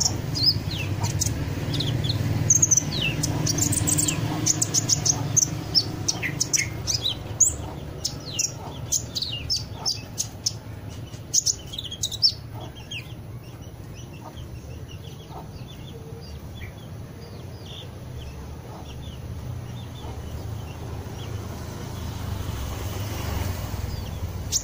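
Songbirds chirping and calling in quick, high, sharp notes, thick and loud for the first half and thinning out after that, over a steady low rumble.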